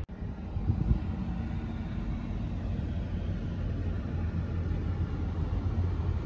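Steady low rumble of a car heard from inside the cabin, engine and road noise, with a short louder bump about a second in.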